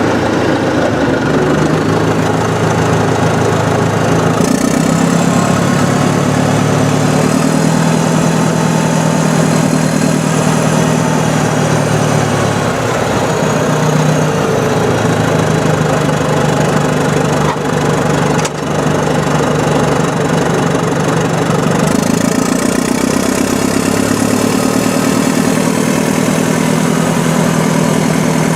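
Heavy Caterpillar diesel earthmoving machinery working: a continuous engine drone whose pitch and load shift about four seconds in and again about three quarters of the way through, with a faint high whine over it.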